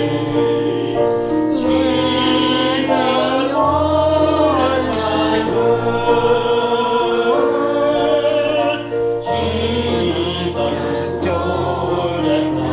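A group of voices singing a hymn together over instrumental accompaniment: held chords with a steady bass line.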